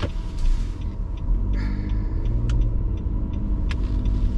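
Car interior noise while driving: a steady low rumble of engine and tyres, heavier from about a second in, with a few faint clicks.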